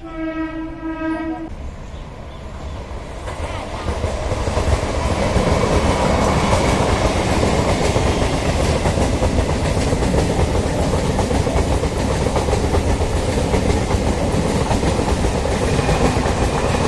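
A train horn sounds once for about a second and a half. Then a passing train builds to a loud, steady rumble over a few seconds and stays loud.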